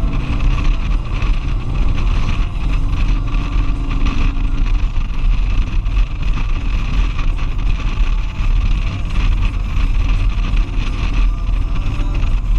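Motorcycle riding at road speed, heard from a helmet-mounted GoPro: the engine runs steadily under heavy wind rumble on the microphone.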